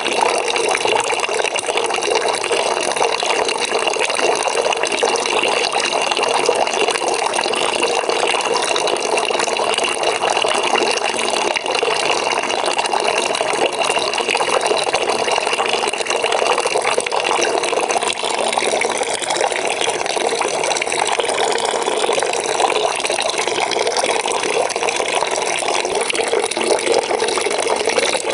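Water from a tap running steadily into a bucket, a continuous splashing and gurgling fill.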